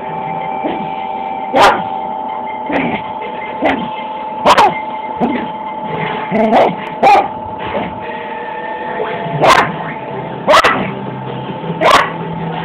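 A dog barking in short, sharp barks, about ten of them at irregular intervals, over a steady background hum.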